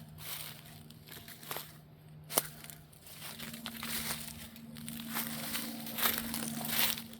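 Footsteps rustling and crunching through dry leaves and brush, with irregular crackling and one sharp click about two and a half seconds in.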